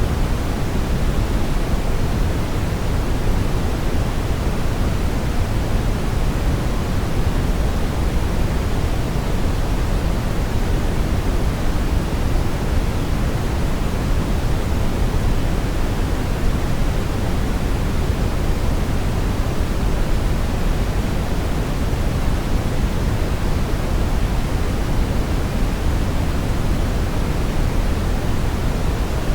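Steady synthetic brown noise: an even, unchanging rumbling hiss weighted toward the low end, with no tones or events.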